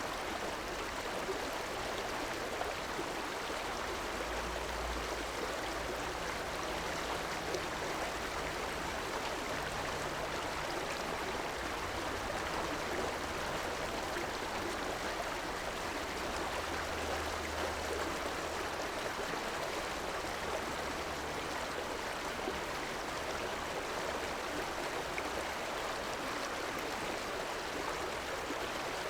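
River water flowing, a steady rush of water with no pauses. A faint low rumble comes and goes underneath.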